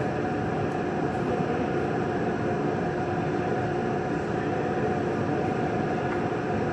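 Steady mechanical drone of running machinery, even and unbroken, with a constant pitched hum.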